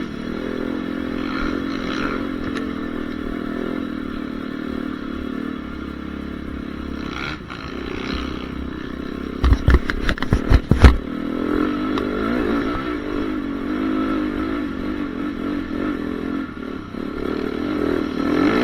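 Honda CRF450R four-stroke single-cylinder motocross engine running, its pitch rising and falling with the throttle, with a cluster of loud thumps about halfway through.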